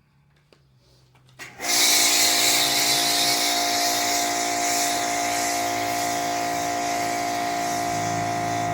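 Adams Pressure Washer 2.0 switching on about a second and a half in and running steadily: its pump motor hums under a strong hiss of shampoo foam spraying from the wand.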